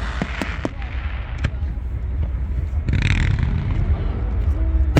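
Fireworks going off in an aerial display: a few sharp bangs spaced irregularly, with a brief hissing burst about three seconds in, over a steady low rumble.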